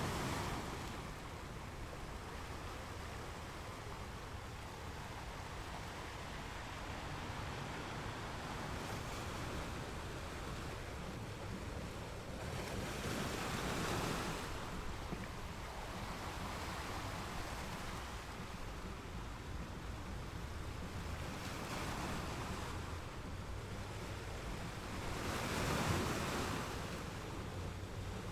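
Ocean surf: waves breaking and washing onto a beach in a steady rush, swelling into louder breakers about halfway through and again near the end.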